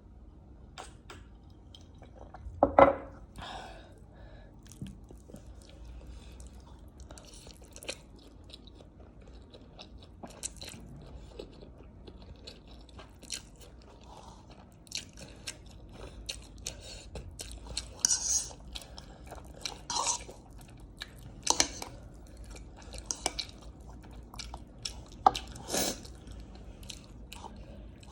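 Close-miked chewing with crisp crunches and wet mouth clicks, a bite or crunch every second or so, the loudest about three seconds in and again several times in the second half.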